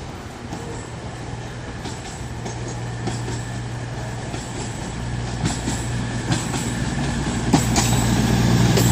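Class 220 Voyager diesel-electric multiple unit arriving, its engine hum growing steadily louder as it draws in, with a few sharp clicks from the wheels near the end.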